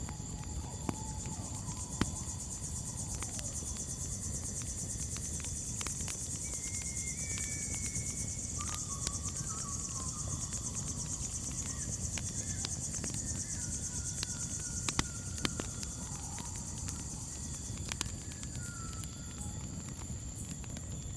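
Crickets chirping steadily over a crackling campfire, with scattered sharp pops from the fire and a few short whistled calls.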